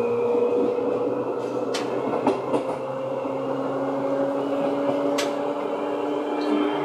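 Seibu 2000-series electric train running, its traction motors whining steadily and rising slowly in pitch, with a few sharp clicks.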